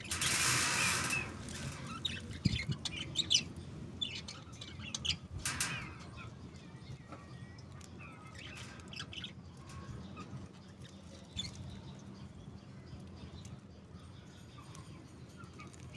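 Australian parrots chirping in short, scattered calls, with a loud rustling burst in the first second or so and another brief one about five seconds in.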